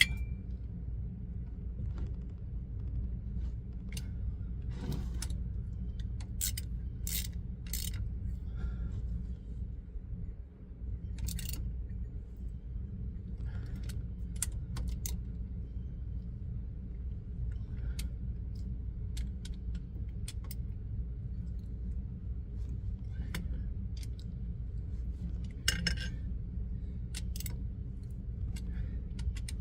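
Wrench and sockets clinking against metal as the bolts on a truck's driveline U-joint are done up: scattered sharp clinks over a steady low hum.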